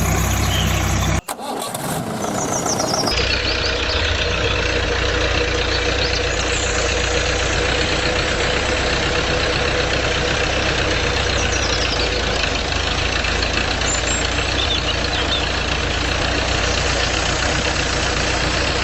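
An engine starts and then runs steadily at idle, with an even low hum and no change in speed.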